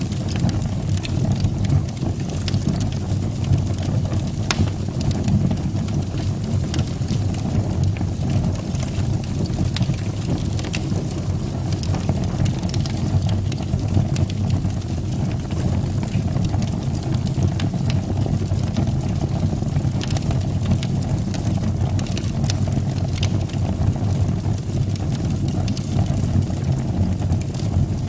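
Fire burning in a fireplace: a steady low rumble of flames with scattered faint crackles.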